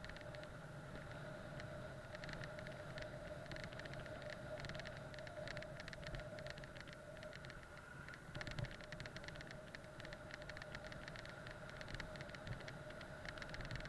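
Faint, steady ride noise from a bike rolling along a road: low rumble and hiss with a constant hum, dotted with many small rattling clicks.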